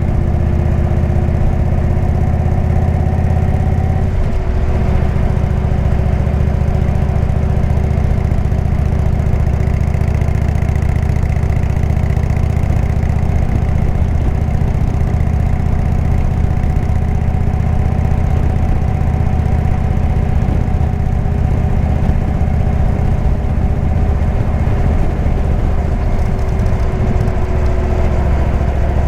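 Indian V-twin motorcycle engine running steadily through a Jekill & Hyde exhaust while riding, its note changing once about four seconds in.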